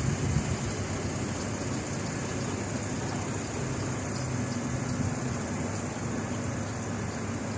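A car running: a steady rumble with a faint low hum.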